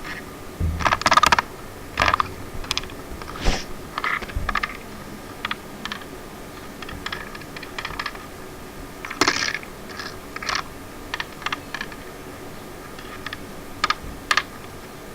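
Irregular short clicks and taps, some single and some in quick clusters of several, over a faint steady hum.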